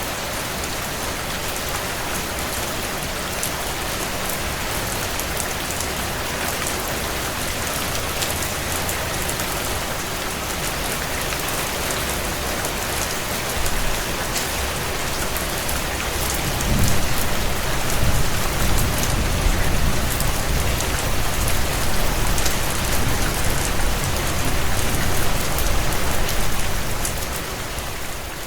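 Steady heavy rain on window panes, with light crackling from a wood fire. About halfway through, a deep low rumble swells in and carries on almost to the end.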